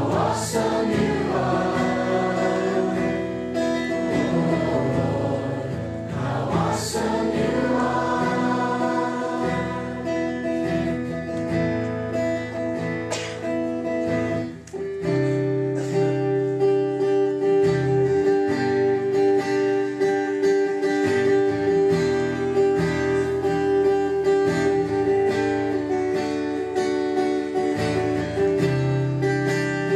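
Music: a group of voices singing together over acoustic guitar, in a gospel or Christian style. The music breaks off briefly about halfway through and goes on with a different passage.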